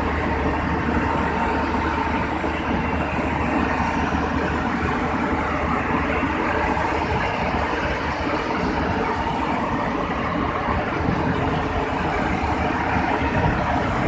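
Excavator's diesel engine running steadily at an even level and pitch.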